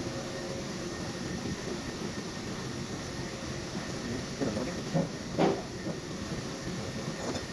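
Steady background hiss, with a few short clinks, like hand tools on the engine, between about four and five and a half seconds in.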